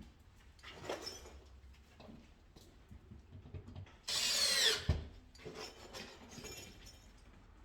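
A cordless drill-driver runs in one short burst about four seconds in, its pitch falling as it stops and ending with a knock. Lighter tool-handling knocks come before and after it.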